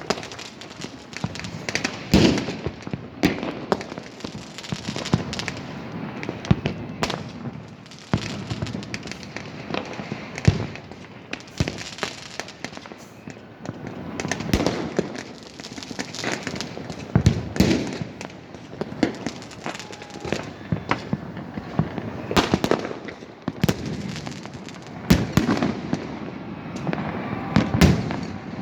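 Many fireworks and firecrackers going off at once: irregular sharp bangs, several a second at times, over continuous crackling.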